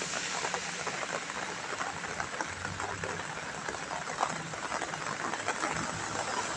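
Gentle rain falling on a wet road, many small drops ticking irregularly over a steady hiss, with a faint low hum underneath.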